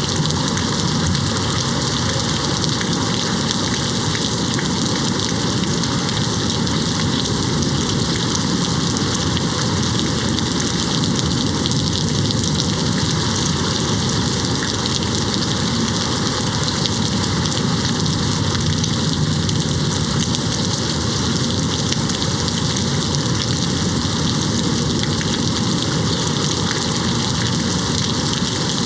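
Steady rain hitting a window, an even hiss that holds at the same level throughout.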